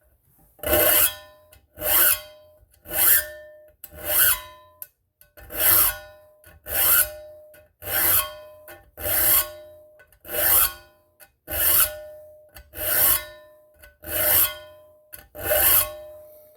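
Steel file rasping across the teeth of a weed whacker's metal wood-cutting blade, thirteen single strokes at about one a second, each setting the steel blade ringing faintly. The blade's teeth are being sharpened, one direction only.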